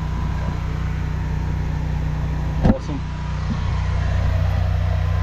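A high-pressure drain jetter's engine running steadily with a low hum, and a single sharp knock a little past halfway.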